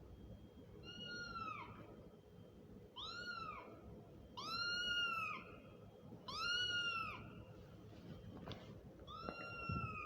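Kitten meowing: five high, arching meows, one every one to two seconds, the middle two the loudest.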